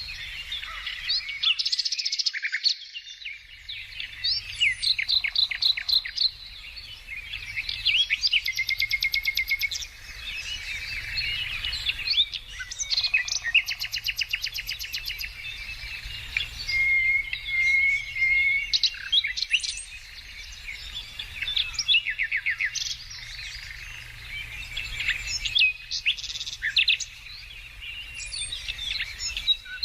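Several songbirds singing and calling at once, a dense chorus of rapid chirps, trills and short whistles.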